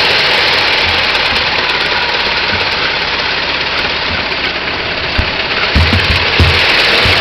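1909 Ford Model T's four-cylinder engine running steadily, with a few low thumps in the last couple of seconds.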